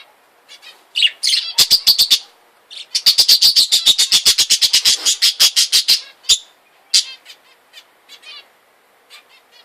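Pet cage birds chirping in quick, high-pitched runs of about seven chirps a second, the longest run lasting about three seconds, then a few scattered single chirps near the end.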